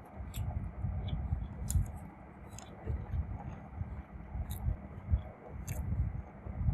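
A person chewing food close to the microphone, with a low, rhythmic mouth-and-jaw rumble and a few short, crisp clicks scattered through it.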